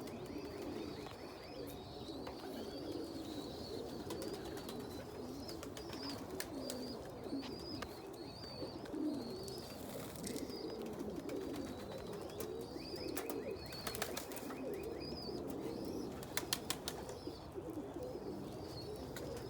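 A loft full of domestic pigeons cooing, a continuous overlapping jumble of low coos, with scattered sharp clicks and taps and a thin high chirping over the top.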